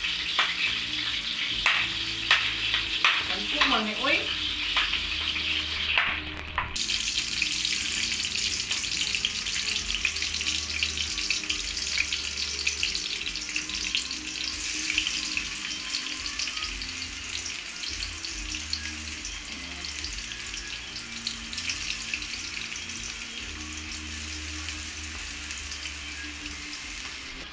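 Onions sizzling and crackling in hot oil in a steel wok, with a metal spatula clicking and scraping against the pan during the first several seconds. About six seconds in the sound changes abruptly and the frying runs on brighter, slowly fading toward the end.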